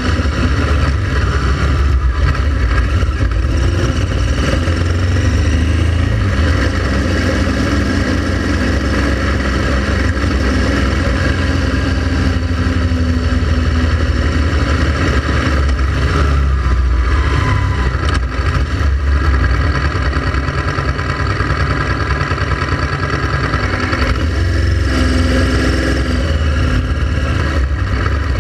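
Honda Transalp XL700's V-twin engine running steadily as the motorcycle is ridden, a continuous low rumble with a rush of noise over it.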